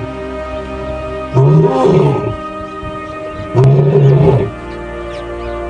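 Lion roaring in short, deep, even-pitched calls of about a second each, two to three seconds apart, over steady background music.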